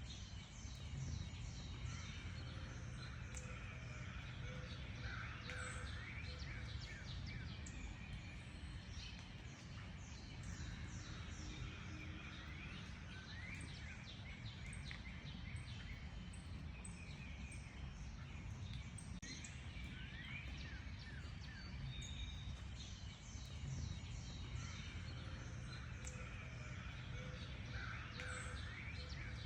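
Several wild songbirds chirping and calling at once, with many short quick notes and sweeps, over a steady low rumble of background noise.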